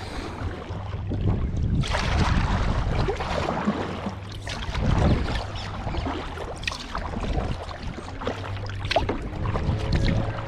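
Kayak paddle blades dipping into and pulling through river water, splashing in irregular strokes every second or two, over a low rumble of wind on the microphone.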